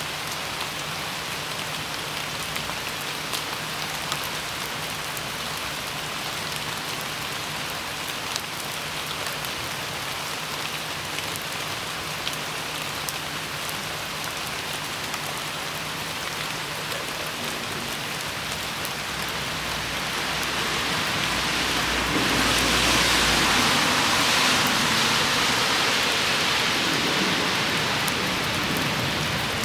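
Steady rain falling, with individual drops ticking sharply now and then. About two-thirds of the way through it swells louder, with a low rumble, for several seconds before easing.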